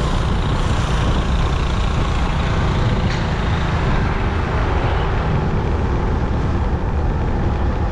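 Motorbike riding at cruising speed: steady wind rush over the microphone mixed with engine and road noise, heaviest in the low end.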